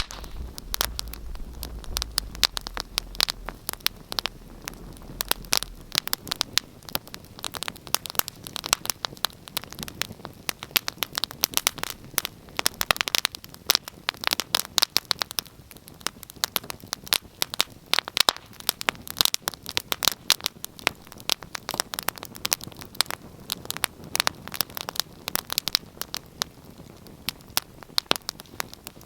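Wood fire in a fireplace crackling, with many irregular sharp pops and snaps over a soft hiss of burning. A low rumble underneath dies away in the first few seconds.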